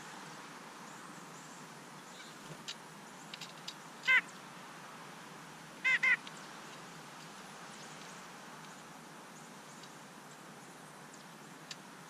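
Bird calls at a back-yard feeder: one loud call about four seconds in and a loud double call about six seconds in, with a few faint short chips scattered between.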